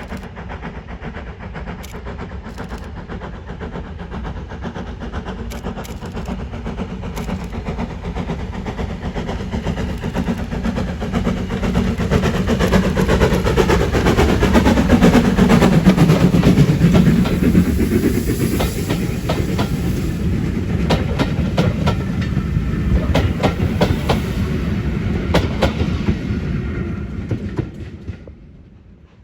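Steam-hauled train, LMS 11456, running past: the rumble builds to its loudest about halfway through, and the carriage wheels click over the rail joints as the train goes by. The sound then fades and drops away just before the end.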